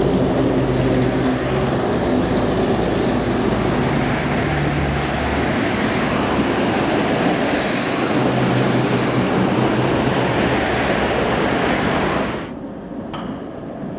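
Tram running close by: steady rumble of wheels on rail with a low motor hum, cutting off abruptly about twelve seconds in.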